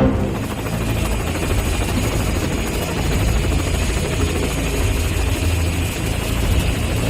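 Helicopter running steadily, its rotor and turbine noise continuous and loud.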